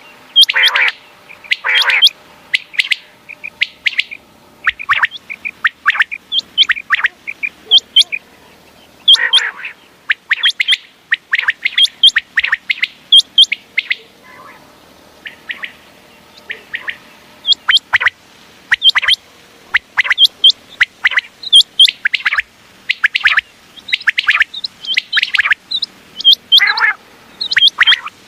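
Common quail calling over and over in groups of short, sharp, high notes in quick succession. A few lower, rougher calls are mixed in, and there is a lull of a few seconds about halfway through.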